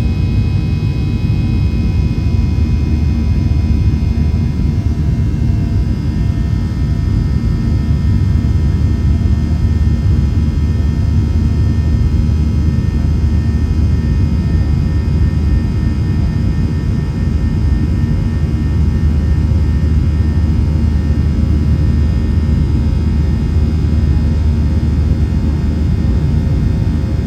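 Steady low rumble of a Boeing 737-700's CFM56-7B turbofan engines heard inside the cabin in the climb after takeoff, with faint steady whining tones above the drone.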